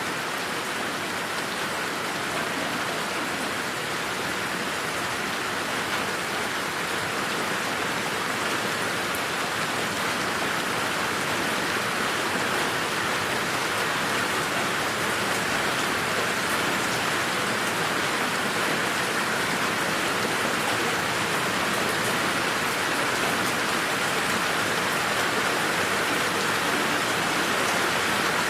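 Steady rain falling in a garden, an even hiss of drops on leaves and ground with fine drop ticks, no thunder.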